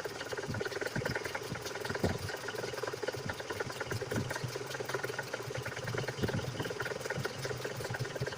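GAZ 3102 Volga's ZMZ-402 inline-four petrol engine running at low revs, with a rapid, dull knocking and clatter from the front of the engine, which the owner puts down to a worn timing gear.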